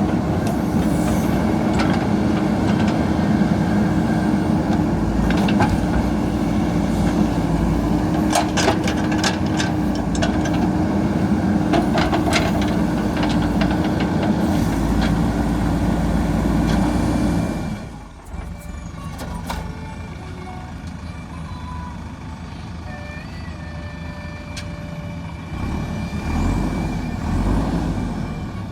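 JCB backhoe loader's diesel engine running under load with a steady hum, and several sharp metal clanks from the working gear. About two-thirds of the way through the sound drops suddenly to a quieter, more distant engine sound.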